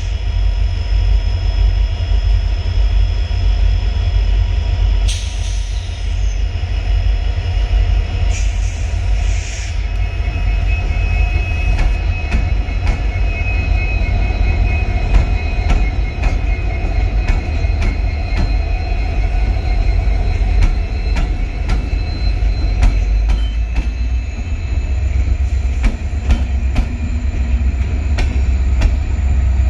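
Train rolling slowly into a station: a deep rumble, with wheels clicking over rail joints and a thin wheel squeal. The clicks come thick and irregular from about twelve seconds in.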